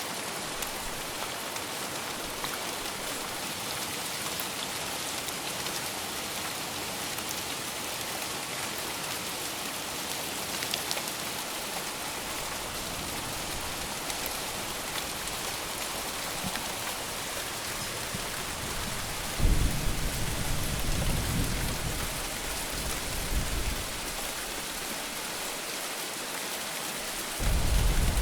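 Steady heavy rain falling. About two-thirds of the way in, a sudden deep thunder rumble lasts several seconds, and another begins near the end.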